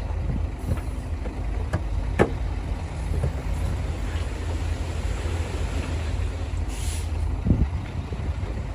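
Heavy diesel earthmoving machinery running with a steady low rumble, broken by scattered sharp knocks and a short hiss about seven seconds in.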